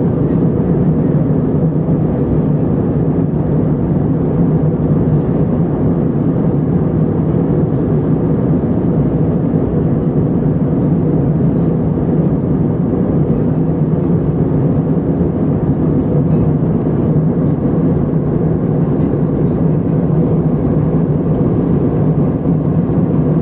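Steady drone of an Airbus A320 in flight, heard from inside the passenger cabin: engine and airflow noise with a constant low hum.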